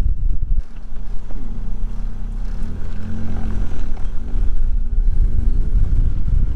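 Car engine running under a heavy low rumble, its revs climbing steadily from a bit past the middle.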